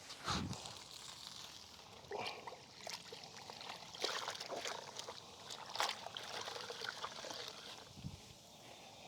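Soapy water sloshing and trickling during a hand wash with a wash mitt and bucket, with several short splashes.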